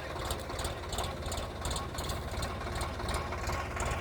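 Tractor engine running steadily at low revs, with a light clicking clatter on top.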